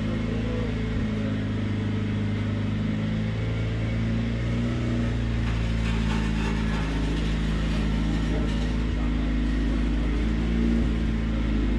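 Box truck engine running steadily at low speed, a low, even drone as the truck creeps in reverse.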